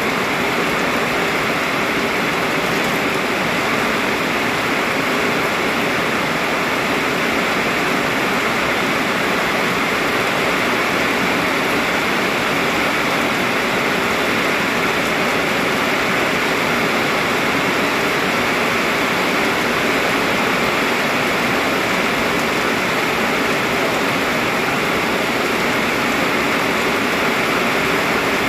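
Heavy rain pouring down in a steady, even hiss that neither swells nor fades.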